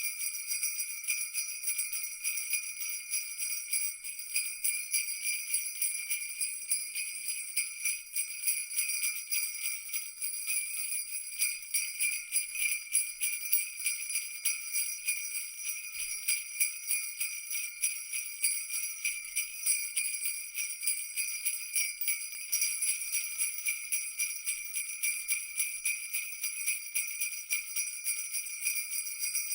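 Jingle bells shaken continuously in a dense, steady jingling, bright and high-pitched with no low sound beneath.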